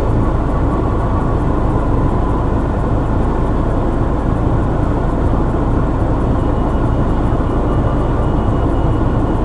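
Steady low rumble of a car's engine and running noise, heard from inside the cabin.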